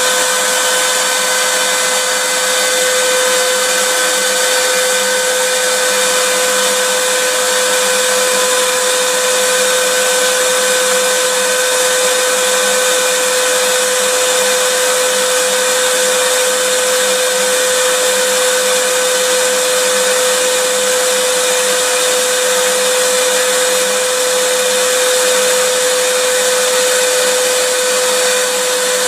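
Vacuum cleaner running steadily: a constant rushing hiss with an unchanging motor whine held at a few fixed pitches.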